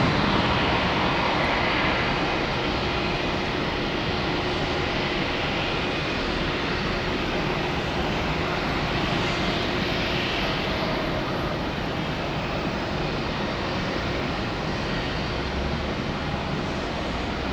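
Jet airliner engines running, a steady, even noise across low and high pitches that eases a little over the stretch.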